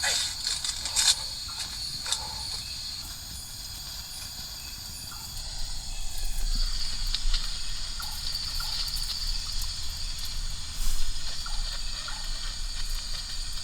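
Forest ambience with a steady high insect chorus. A few sharp clicks come in the first two seconds, and a low rumble sets in about six seconds in.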